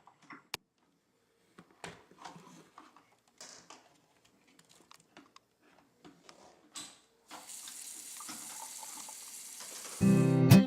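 Scattered light knocks and handling of plastic parts, then a tap running steadily from about seven seconds in as a vacuum cleaner filter is rinsed under it. Loud strummed acoustic guitar music starts near the end.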